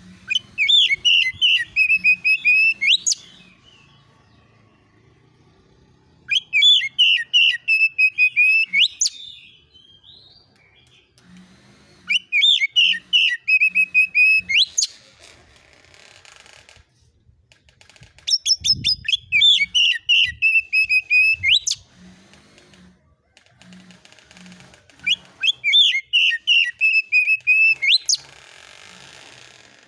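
Oriental magpie-robin (kacer) singing a rapid phrase of sharp whistled notes, about four a second for some three seconds and ending in a quick upward sweep. The same phrase comes five times, about six seconds apart.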